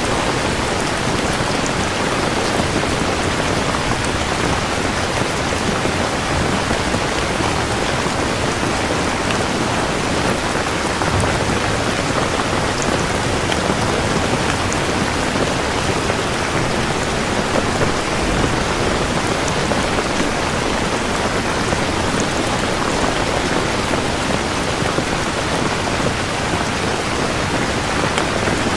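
Steady rain falling, with a couple of low rumbles of thunder underneath.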